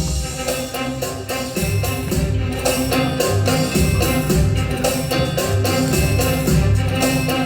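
Live instrumental ensemble music. The full band comes in suddenly at the start over softer sustained tones, then drums and percussion keep a steady low beat.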